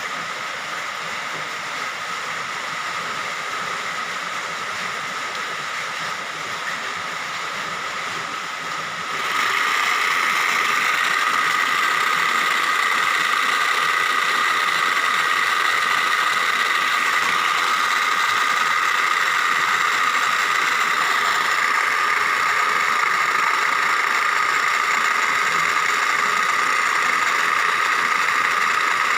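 A small machine running steadily with a high, even whine, growing louder about nine seconds in and holding there.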